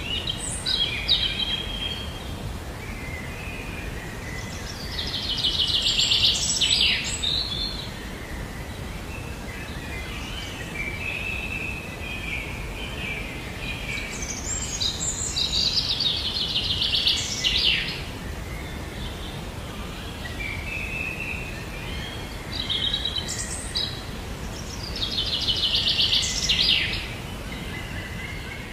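A songbird singing over steady low outdoor background noise: softer high chirps build into a loud, fast trill lasting a couple of seconds, and this phrase comes three times about ten seconds apart.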